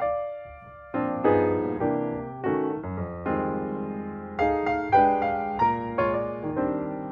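Background piano music: a gentle melody of struck notes that fade, with a short lull about a second in before the notes resume.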